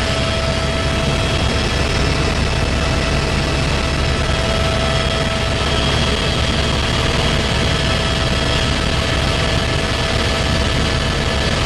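Helicopter turbine and rotor running steadily: a constant loud, heavy drone with a steady high whine over it.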